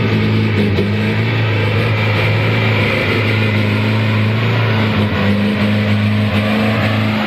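Truck engine running steadily under load, its low drone holding pitch and sagging a little about five seconds in.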